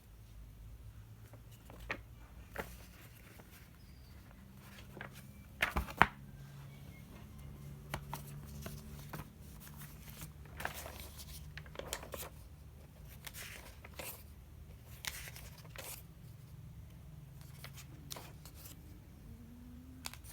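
Packaging being handled during an unboxing: short rustles and tearing of cardboard and plastic, with scattered clicks and a sharp knock about six seconds in.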